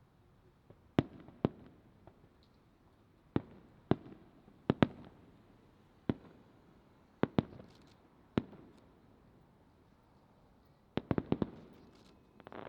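Aerial fireworks shells bursting: a string of sharp bangs, singly and in quick pairs, each trailing a short low rumble, with a rapid volley of about five bangs near the end.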